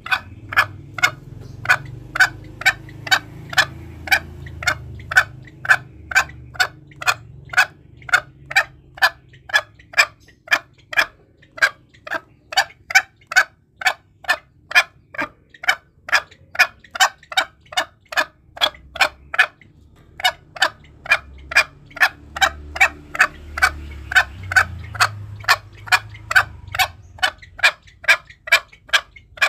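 Green junglefowl clucking in a long, even series of short sharp notes, about two and a half a second, the kind of call played as a lure to draw wild junglefowl in for hunting.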